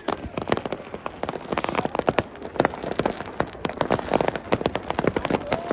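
Dense, irregular crackling and popping of many fireworks and firecrackers going off at once, with sharper single bangs scattered through.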